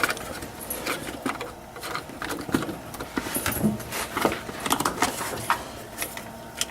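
Irregular small clicks and rattles of hands working at plastic and metal parts around the rear oxygen sensor's wiring plug, with the engine off.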